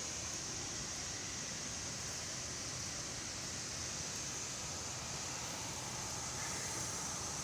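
Steady outdoor background hiss in woodland, even throughout with no distinct events and a bright high hiss on top.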